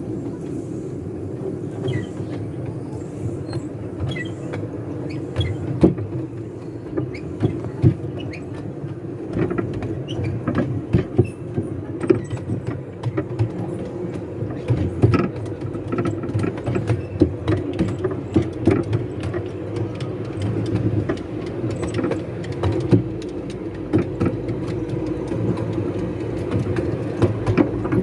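Miniature railway train running along the track, with a steady rumble and frequent irregular clicks and knocks from the wheels and carriages.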